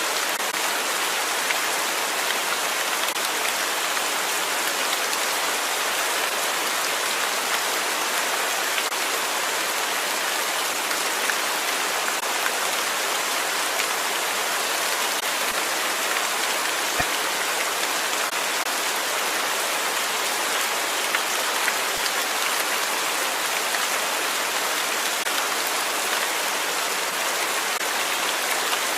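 Steady rain falling, a dense even hiss of drops pattering on a surface with fine individual drop ticks; a soft single tap about 17 seconds in.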